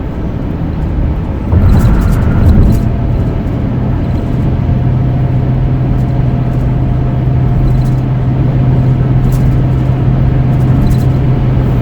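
Car cabin noise while driving on the open road: tyre and wind rush with a steady low engine hum. About one and a half seconds in the rush swells louder for about a second, then settles into an even drone.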